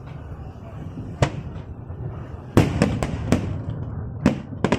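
Fireworks display: aerial shells bursting in sharp, irregular bangs over a continuous low rumble, with a quick flurry of several bangs a little past halfway and two more near the end.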